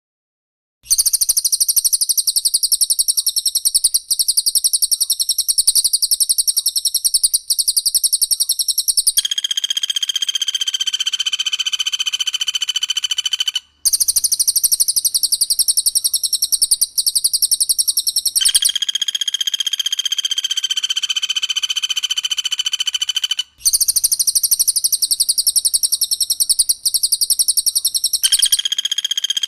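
Recorded calls of a cililin and a pelatuk bawang (common flameback woodpecker) played in turn: several-second stretches of a fast, dense, high-pitched rattling trill alternate with steady, buzzy whistled tones held about five seconds each.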